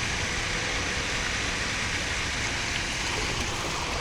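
Steady rushing of water running in an outdoor fountain, an even hiss with no breaks.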